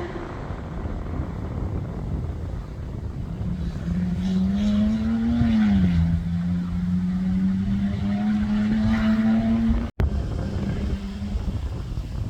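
Competition safari off-road racing vehicle driving over rough ground, with a heavy rumble under a steady engine note. About four seconds in, the engine note climbs, then drops sharply and holds steady. The sound cuts out for an instant near the end.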